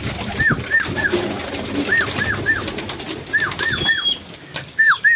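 Birds calling in a pigeon flock: a high call of three short rising-and-falling notes repeats about every second and a half, over low pigeon cooing and rustling.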